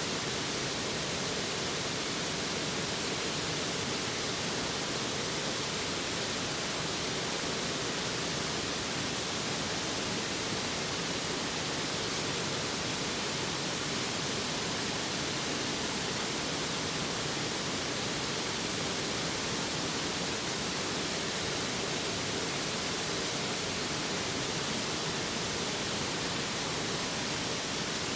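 A mountain stream rushing close by, a steady hiss of flowing water.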